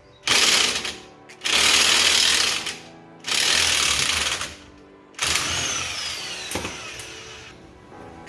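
Impact wrench run in four bursts of about one to two seconds each, the last one the longest, over background music.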